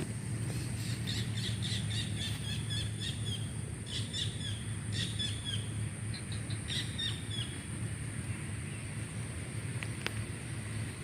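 A songbird chirping in quick series of short, down-slurred notes from about half a second in until around seven seconds, then stopping. Under it are a steady low rumble and a constant thin high whine, with a single sharp click near the end.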